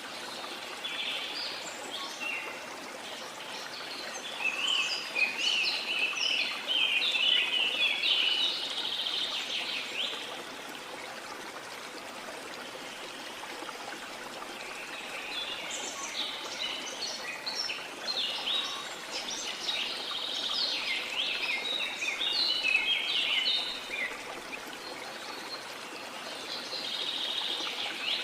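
Steady rush of a flowing stream, with birds singing over it in two long spells of rapid chirps and trills, one early on and one in the middle, and a third starting near the end.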